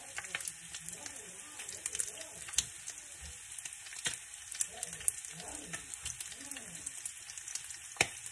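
Food frying in a pan: a steady sizzle with frequent sharp pops and crackles, the loudest pop near the end.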